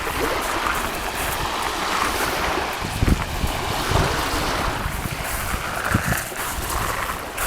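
Wind buffeting the microphone over a steady rush of sea water, with a few low thumps about three, four and six seconds in.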